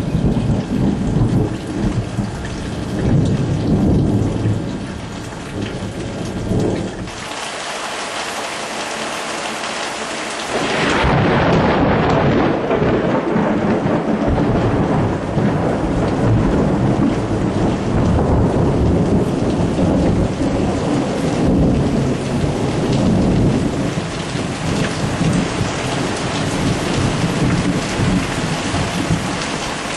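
Heavy rain pouring down during a thunderstorm, with rolling thunder rumbling. The low rumble fades for a few seconds, then a loud clap of thunder breaks about ten seconds in and rumbles on under the rain.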